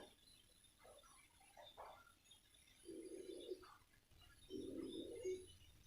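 Faint cooing of a dove: two low coos, the first about three seconds in and the second a second and a half later, with small birds chirping faintly and high.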